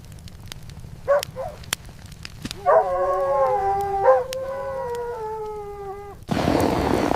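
A dog gives two short yelps, then one long howl that sags slightly in pitch and catches once partway through. Near the end a sudden loud rush of noise cuts in.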